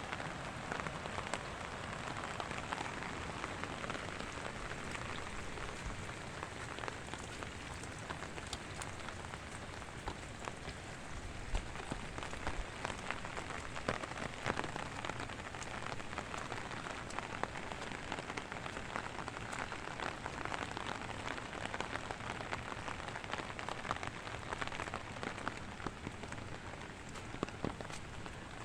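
Steady rain falling, with a constant hiss and many small sharp drop ticks landing on nearby surfaces.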